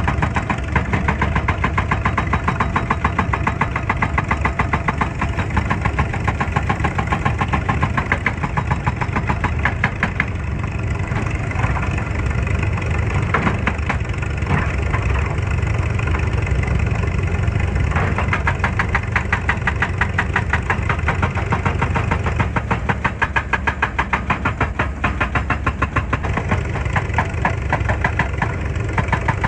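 Excavator's diesel engine running steadily, with a low rumble and a rapid, even clatter.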